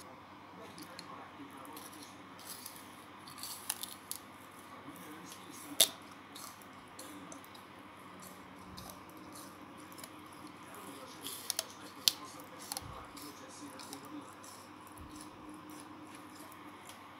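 Chewing frozen cellulose dishcloth: a few sharp, scattered crunches and clicks over a faint steady hum, the loudest about six seconds in and again around twelve seconds.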